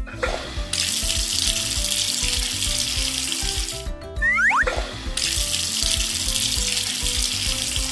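Running tap water sound effect, two stretches of about three seconds each, over light children's background music. A short rising whistle-like glide comes just before the second stretch.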